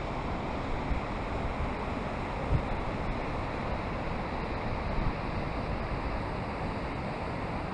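Waterfall flowing strongly: a steady, even rush of falling water.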